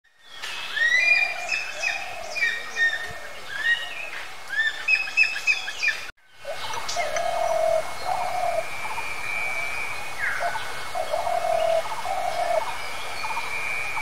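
Birdsong: a busy mix of chirps and short whistled calls for about six seconds. After an abrupt cut come low cooing notes in short runs, typical of a spotted dove, over a long thin whistle and scattered chirps.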